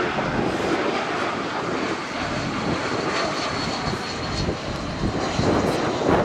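Airliner engines at an airport: a steady, loud rushing noise with a faint high whine in the middle.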